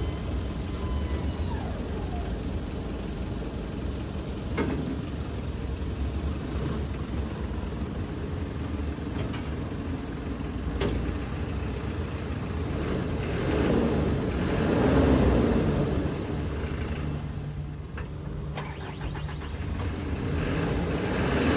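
Diesel engine of a 2007 Mitsubishi Fuso dump truck running steadily, with a swell in level about two-thirds of the way through and a few isolated clicks.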